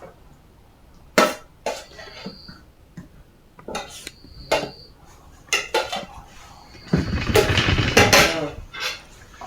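Cutlery clinking against dinner plates as food is served: a string of separate sharp clinks, some ringing briefly, then a louder, busier clatter about seven seconds in.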